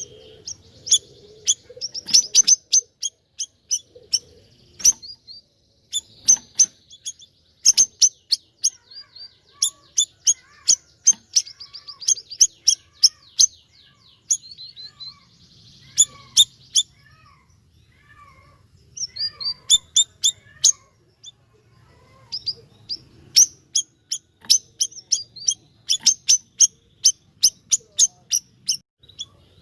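Siri-siri songbird (burung bayeman) singing gacor: long, rapid runs of sharp, high chirps, broken by a couple of short pauses in the middle.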